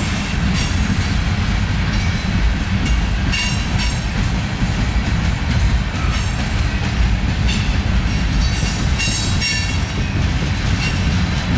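Freight train cars rolling past close by: a steady, loud rumble of steel wheels on rail, with brief high-pitched wheel squeals about 3 to 4 seconds in and again around 8 to 10 seconds in.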